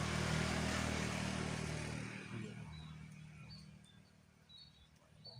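A motor vehicle engine passes and fades away over the first few seconds. Faint short, high bird chirps follow.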